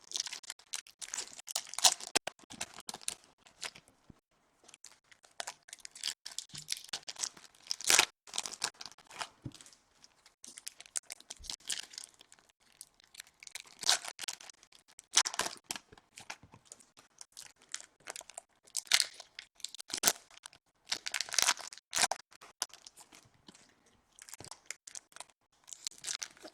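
Trading-card pack wrappers being torn open one after another, with crinkling wrapper sounds and cards rustling as they are handled: a string of short, sharp rustles and tears.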